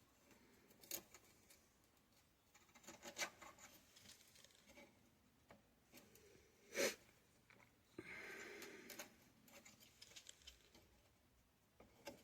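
Near silence with a few faint clicks and taps and a brief rustle, from small parts and tools being handled at a workbench.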